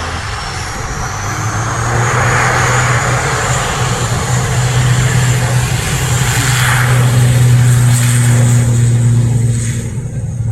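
Jet airliner engines passing close by: a loud rushing noise with a high turbine whine that rises in pitch, swelling to a peak late on and falling away near the end. A steady low hum runs underneath.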